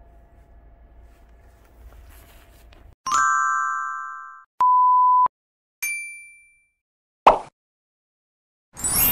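A string of edited-in sound effects over a faint hum: a ringing chime, a steady electronic beep, a second ding and a short click, with dead silence between them. Traffic noise comes in near the end.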